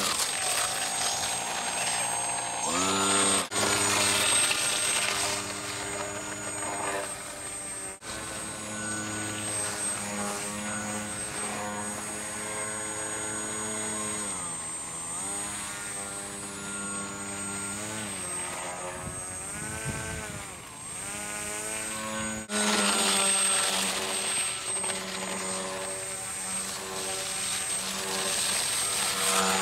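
RC fan boat's brushless electric motor driving its propeller, a buzzing whine whose pitch rises and falls over and over as the throttle is worked.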